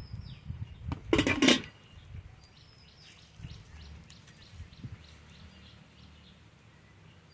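Small birds chirping, short high falling calls scattered throughout over a low steady background noise, with one brief loud noisy burst about a second in.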